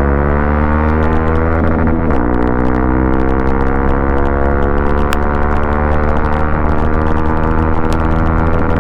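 Modified Hero XPulse 200's single-cylinder engine running at a steady speed, a loud, even drone with little change in pitch.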